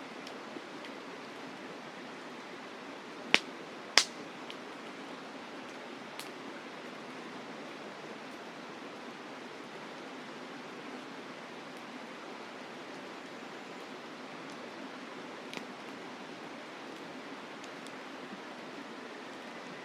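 Steady rush of a mountain river with a wood campfire crackling over it, with two sharp loud pops about three and four seconds in and a few fainter snaps later.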